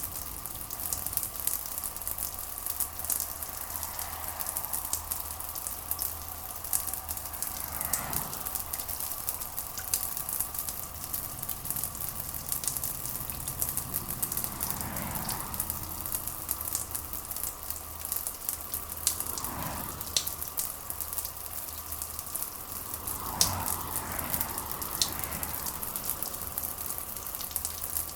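Steady rain pattering with many sharp little drop clicks, and a few soft swells of sound underneath every several seconds.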